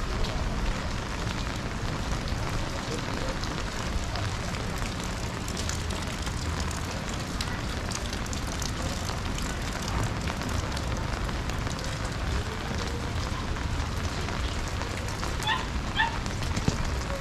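Steady rain falling and splashing on the street, an even hiss with a low rumble under it. Two short high chirps come near the end.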